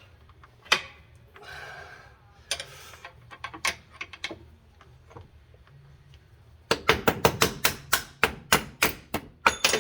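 Metal knocking and scraping on a boat's kicker-motor bracket as a gas shock is worked into place: a single sharp knock about a second in and a couple of short scrapes, then from about two-thirds of the way through a quick, even run of sharp taps, about four a second.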